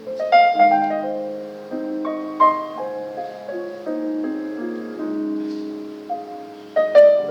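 Piano playing an instrumental jazz passage, single notes and chords, with strong accented strikes about a third of a second in, about two and a half seconds in, and near the end.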